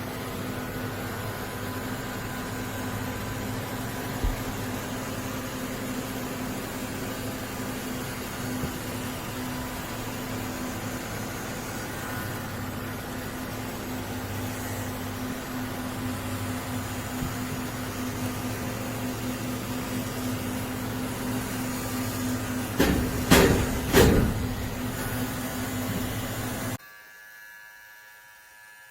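A steady motor hum with a constant low tone. A few loud knocks come near the end, then it drops suddenly to a much quieter hum.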